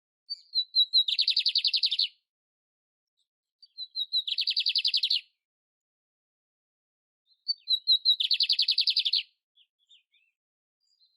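Canário-império singing the same short phrase three times, about four seconds apart: a few quick high notes, then a rapid trill lasting about a second.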